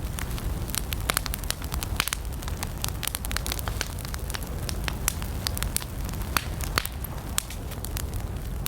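Wood campfire burning, with irregular sharp crackles and pops, several a second, over a steady low rumble of the flames.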